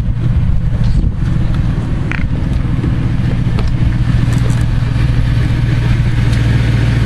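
1999 Lincoln Town Car's 4.6-liter V8 idling with a steady low hum through its exhaust, which the owner says has an exhaust leak.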